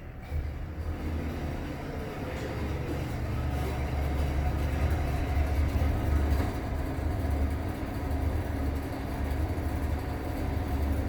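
Broan ceiling exhaust fan running with a steady low hum and a rattly, rough mechanical noise. It grows louder just after the start and then holds steady.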